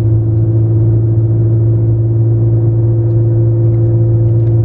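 A motor running steadily: a loud, even low hum at a fixed pitch.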